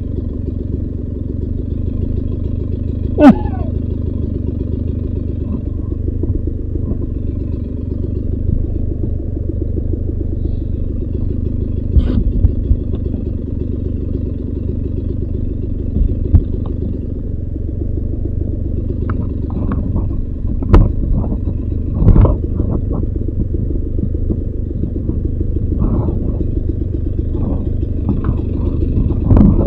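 Beta 300 RR two-stroke dirt bike engine running steadily at an even pitch, with a few short knocks and clatters over it.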